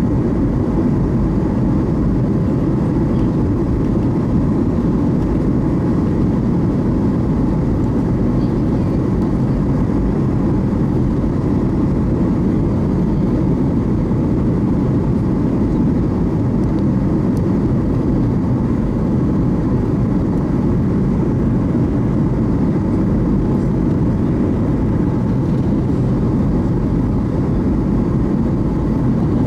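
Steady low cabin noise of an airliner in flight, engines and rushing air heard from inside the passenger cabin, unchanging throughout.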